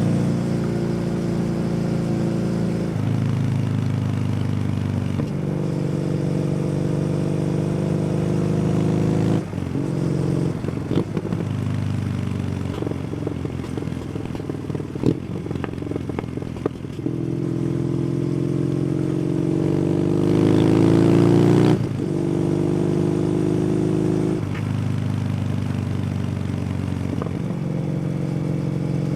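Kawasaki W800's air-cooled parallel-twin engine through an SC Project exhaust, heard from the moving bike: it runs steadily with a couple of gear changes, then the throttle is closed and the exhaust crackles and pops for several seconds around the middle. It then pulls with rising pitch before another upshift drops the pitch near the end.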